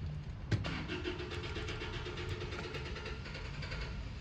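Classic Austin Mini Cooper engine turning over during a start attempt after ignition rewiring: a sharp click about half a second in, then a fast, even mechanical rhythm.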